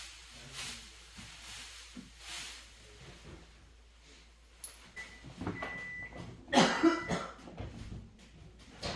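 Handling noises in a small room: scattered clicks and knocks and a few soft hisses, with a thin high beep-like tone in the middle followed by the loudest clatter.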